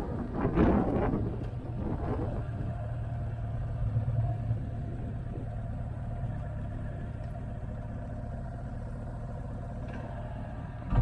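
Motorcycle engine running at a steady road speed, with a gust of wind noise on the microphone in the first second or so.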